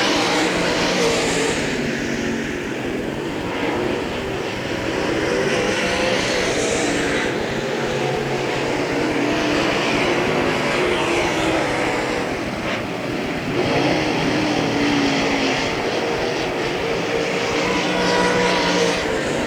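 UMP Modified dirt-track race cars running warm-up laps, their engines droning steadily with pitch rising and falling as cars pass by.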